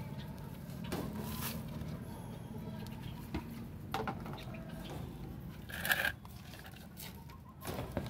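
A few short bird calls and clicks from handling a metal cage, over a steady low hum. The loudest call comes about six seconds in.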